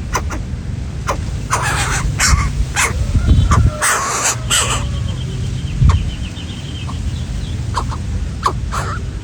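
Domestic fowl calling in short clucks, with two louder harsh squawks, one about two seconds in and one about four seconds in, and a faint high trill a little after halfway.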